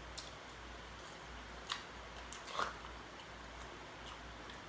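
Faint chewing and mouth clicks from people eating seafood, a few short smacks over a low steady hum.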